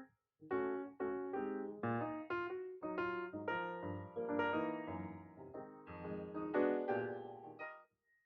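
Background piano music: notes played in short phrases, with a brief pause just after the start, stopping just before the end.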